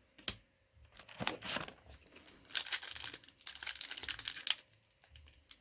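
Foil booster-pack wrapper being torn open and crinkled by hand. There is a sharp click near the start, a short rustle about a second in, then a couple of seconds of dense crinkling.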